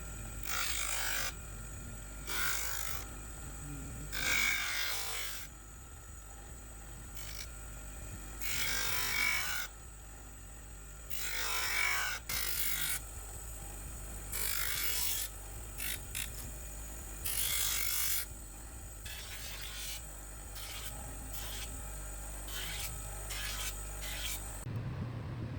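Steel knife blank being ground or sanded in repeated passes of one to two seconds each, a hissing scrape, over a steady low hum.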